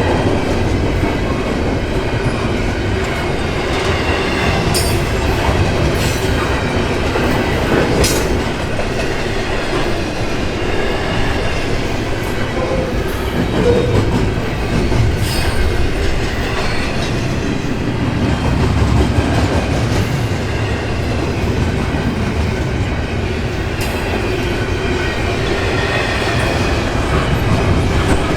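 Intermodal container cars of a freight train rolling past: a steady loud rumble of steel wheels on rail, with faint high squealing from the wheels and a few sharp clicks at rail joints.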